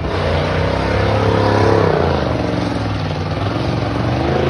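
Tough truck's engine revving hard under load, its pitch climbing, dropping about halfway through, then climbing again near the end.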